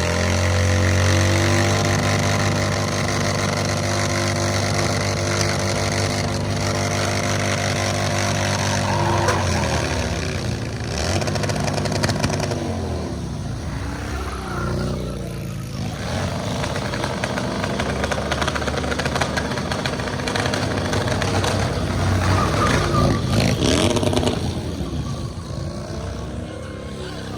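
Motorcycle engine revving hard during a burnout, held at a steady high pitch for about nine seconds, then its revs rising and falling repeatedly.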